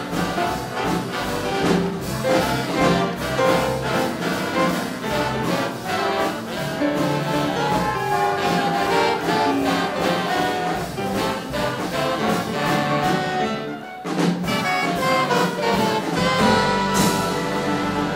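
Live big band jazz orchestra playing a hot swing-era number, the brass section of trumpets and trombones to the fore, with a short drop in the sound about fourteen seconds in before the band comes back.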